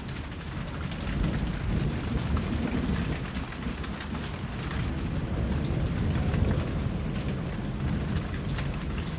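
Steady rainfall with many fine drops pattering, over a low rumble of thunder that swells about a second and a half in.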